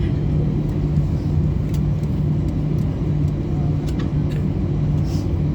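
Steady low cabin hum inside an Airbus A320 before takeoff, the aircraft's air and engine noise running evenly with a few faint clicks.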